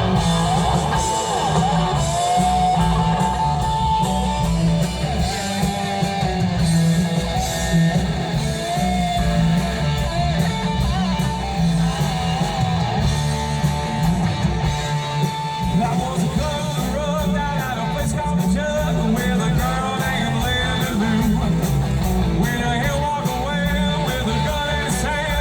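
Live rock band playing: a singer over electric guitar, bass and drums, running steadily and loud.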